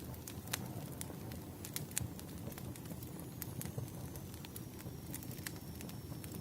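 Bonfire crackling: a steady low rumble of the flames with irregular sharp pops and snaps from the burning wood.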